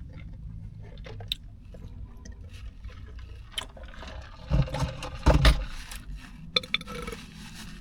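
Close-miked chewing and wet mouth noises of someone eating a sub sandwich, with scattered small clicks and a louder, noisier stretch about four and a half to five and a half seconds in.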